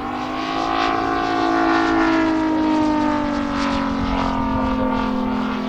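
MOKI 250 five-cylinder radial engine of a quarter-scale RC Grumman F4F Wildcat flying past. Its steady drone swells to loudest about two seconds in, and its pitch falls slowly as it goes by.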